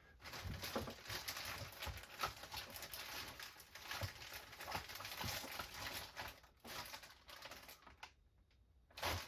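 Hands rummaging through small parts and bags on a workbench: light rustling, crinkling and clicking, which stops about eight seconds in.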